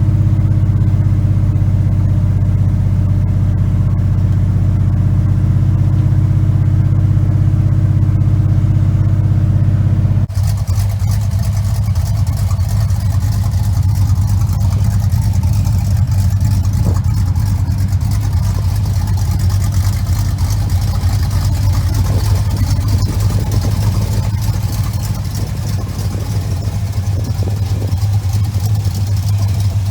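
A 350 V8 in a 1975 GMC Sierra Classic pickup idling steadily. About ten seconds in, the sound changes abruptly to a rougher, fluttering engine note with a layer of hiss.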